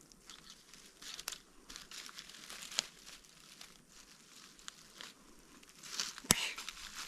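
Dry forest-floor litter rustling and crunching as the ground is dug through, with scattered sharp clicks and one louder snap about six seconds in.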